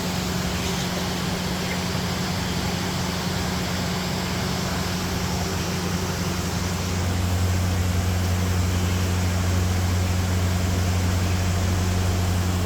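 A steady low machine hum with a constant hiss, its deepest tone growing louder about seven seconds in.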